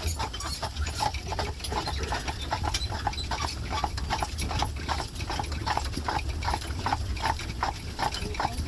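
Hooves of the buggy horse clip-clopping on the road in a quick, even rhythm of about three to four beats a second, over a steady low rumble.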